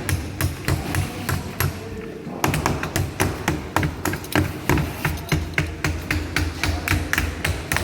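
Rapid repeated hammer taps on sheet metal, about five a second with a brief pause about two seconds in, as C-clips are driven onto the joined flanges of air-conditioning ductwork.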